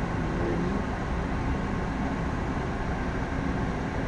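Steady engine and airflow noise of an Embraer ERJ 145 with its Rolls-Royce AE 3007 turbofans running, heard from the flight deck.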